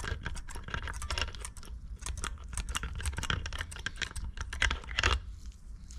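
Rapid light clicks and rattles of small parts being handled while the cleaned window-motor parts are greased and put back together.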